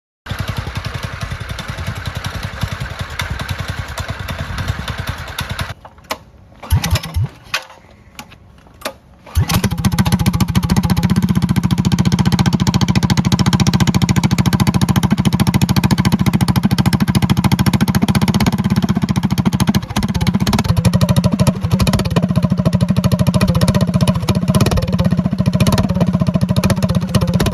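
Predator 212 single-cylinder four-stroke minibike engine fitted with an upgraded exhaust, running. After a quieter stretch with a few short blips, about nine seconds in it comes in louder and steadier with a deep low note that holds to the end.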